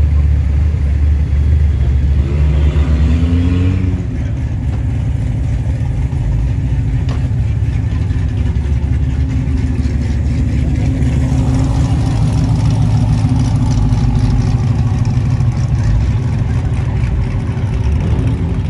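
Car engines running as vehicles move slowly past, one revving up in a rising pitch about two seconds in and easing off at about four seconds, then a steady engine drone.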